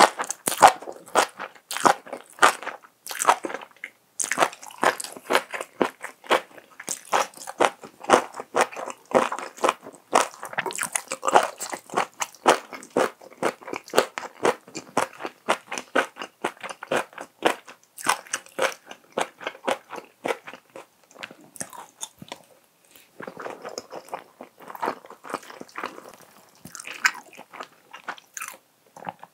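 Close-miked eating sounds: a person chewing and biting a mouthful of rice mixed with spicy tofu stir-fry. The chewing is a quick run of sharp, wet, crunchy clicks, several a second, with a brief lull about two-thirds of the way through.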